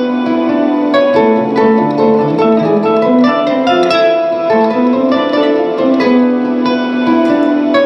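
Solo live instrumental music: a steady stream of plucked string notes ringing on over one another.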